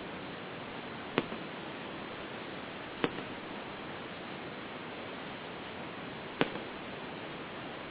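Three sharp firework bangs, a couple of seconds apart, each with a faint tick just after, over a steady hiss from poor camera audio.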